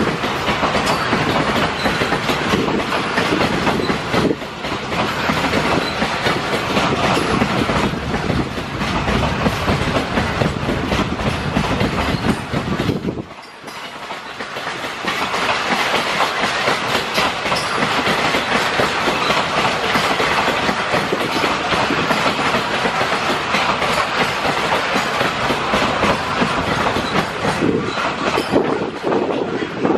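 Open-top freight wagons of a freight train rolling past, their wheels clattering over the rail joints in a steady rumble. The sound dips briefly about halfway through, and the last wagon goes by near the end.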